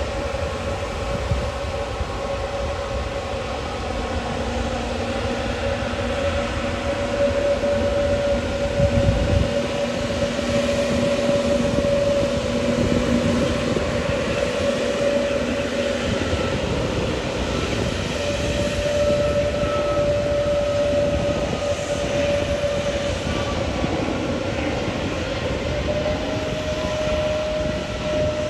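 Jet airliner engines running with a steady whine over a broad rush of noise, the whine shifting slightly in pitch and growing a little louder a third of the way in.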